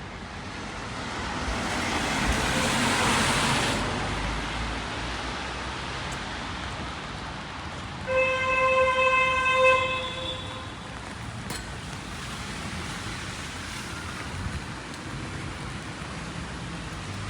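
Steady rain on a wet street, with a vehicle swishing past on wet road about two to four seconds in. About eight seconds in, a vehicle horn sounds one held honk of about two seconds.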